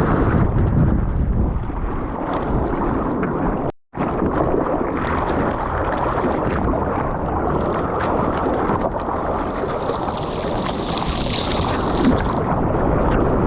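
Rushing water and wind buffeting a GoPro's microphone in the surf, a dense steady roar that cuts out briefly about four seconds in.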